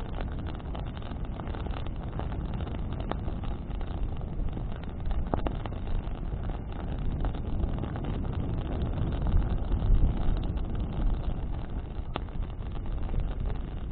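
Bonfire burning in the wind: a steady low rumble of wind and flames, swelling briefly near the middle, with a few sharp crackles of burning wood.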